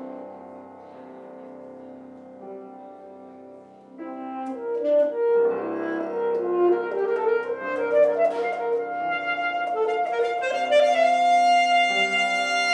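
Saxophone playing a slow, sustained melody with piano accompaniment, quiet at first and swelling noticeably louder about four seconds in, ending on a long held note.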